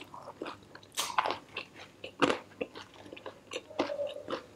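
Close-miked chewing of a Burger King Crunchy Chicken Volcano, a crisp-shelled chicken wrap: irregular crunches and mouth clicks, the loudest about one and two seconds in.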